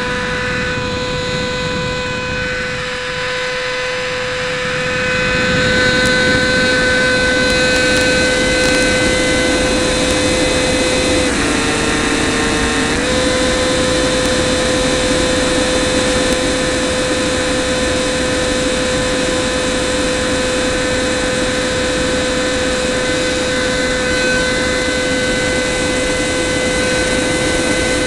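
70 mm electric ducted fan of an RC F-16 jet whining steadily in flight, heard from an onboard camera with air rushing past. The rushing grows louder about five seconds in, and the whine drops slightly in pitch for about two seconds near the middle before coming back up, as the throttle is eased and reopened.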